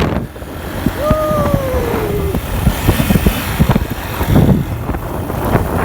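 Motorcycle riding on a rough rural road: engine running under a steady low rumble, with irregular knocks and rattles from the bumps. A brief falling tone about a second in.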